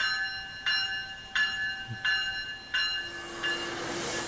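Railroad bell ringing in even strokes, about one and a half a second, fading out about three seconds in as the rushing noise and low hum of a passing train take over.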